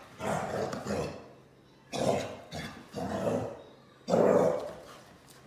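A dog vocalising in about five short, rough bursts, the loudest one near the end.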